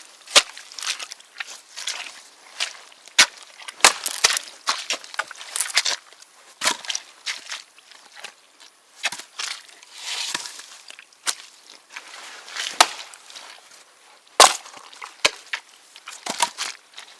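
Heavy splitting maul striking birch rounds again and again, about a dozen sharp cracks at uneven intervals, with split pieces clattering down in between. The fresh spring birch splits easily, often at a single blow.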